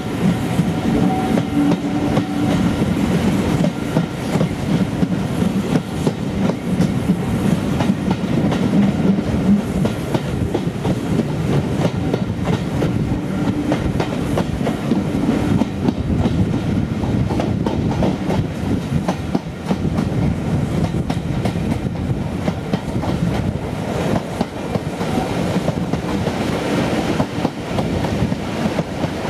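Heritage train running steadily, heard from an open window of one of its vintage carriages: the rumble of the wheels and a run of clicks over the rail joints.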